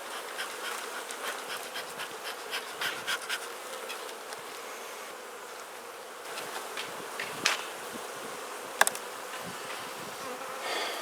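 Honeybees buzzing steadily around an open hive, with a scatter of light clicks in the first few seconds and two sharper knocks later on.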